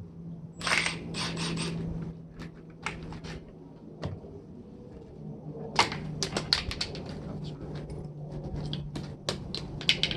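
Clicks and clattering of small hard parts being handled while a vacuum cleaner or tower fan is taken apart for scrap, in two busy spells, over a steady low hum.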